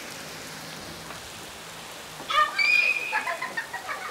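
Heavy rain falling with a steady hiss; a little over two seconds in, a high-pitched voice shrieks and calls out over it without clear words.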